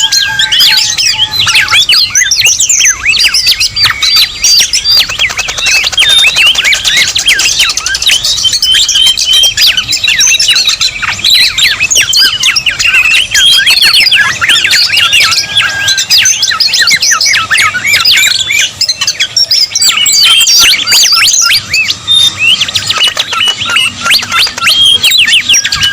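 Loud, dense bird-lure track of many overlapping bird chirps, whistles and squawks, layered thickly into a noisy mix.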